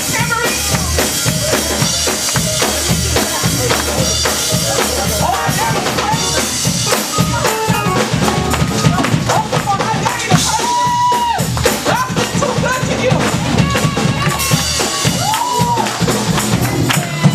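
Live gospel praise music: a drum kit keeping a driving beat with bass drum and tambourine, and voices singing and shouting over it.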